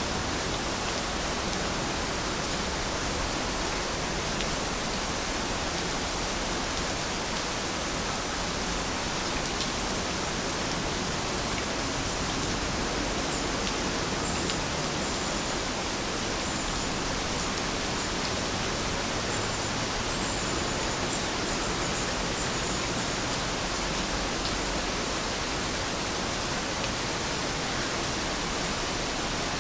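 Steady rain falling: an even, unbroken hiss of rain with no thunder. A few faint high chirps come through midway.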